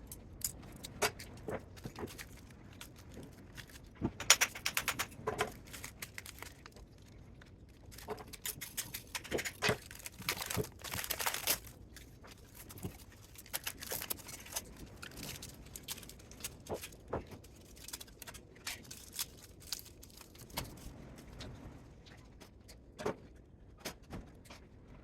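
Metal parts and hand tools clinking, rattling and scraping in an irregular run of clicks, with busier, louder clattering around four to five seconds in and again from about nine to twelve seconds in.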